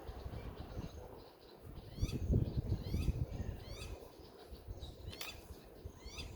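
Birds calling: a string of short, quickly rising chirps repeated several times, over a low, uneven rumble on the microphone.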